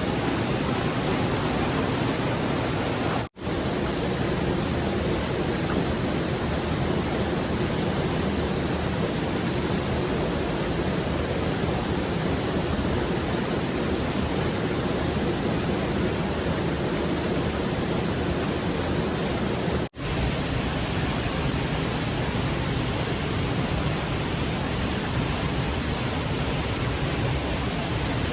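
Rushing stream water, a steady hiss of flowing water over rocks. It cuts out for an instant twice, about three seconds in and again near twenty seconds.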